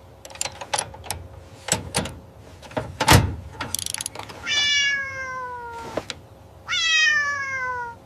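Light clicks and knocks, with one heavier knock about three seconds in, then a cat meowing twice, each meow long and falling in pitch.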